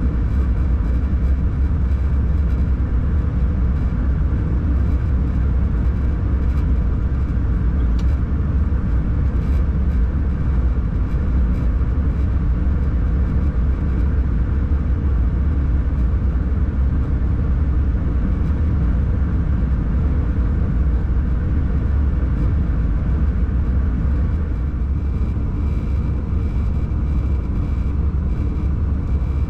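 Steady low rumble inside a locomotive cab as the train runs along the track, a little quieter for the last few seconds.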